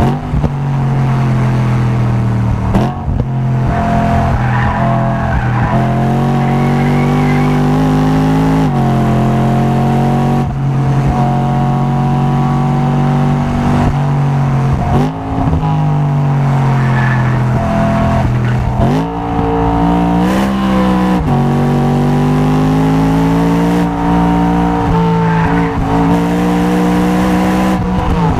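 A car engine under hard track driving. Its pitch climbs through each gear and drops sharply several times at the gear changes, with short dips in loudness, and falls away at times when the car slows for corners.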